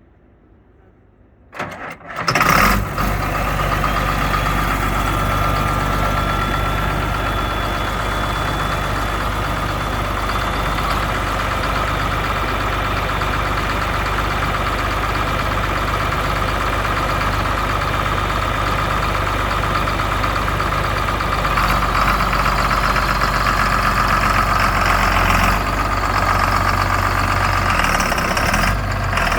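John Deere 4455 tractor's 7.6-litre six-cylinder diesel cranking on the starter and catching about two seconds in, then idling steadily.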